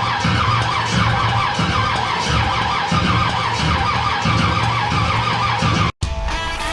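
Chevy small-block V8 running loud with an uneven, pulsing beat a few times a second. It cuts off abruptly near the end, and electric guitar music starts.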